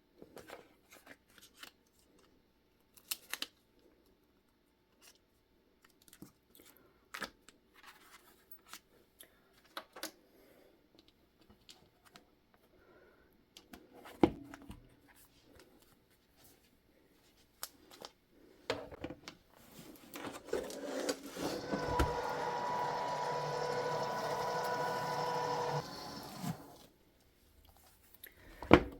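Light clicks and crinkles of vinyl pieces being handled, then, about 22 seconds in, the electric motor of an AccuQuilt GO BIG Electric die cutter runs with a steady hum for about five seconds, feeding the die and vinyl through its rollers, and stops.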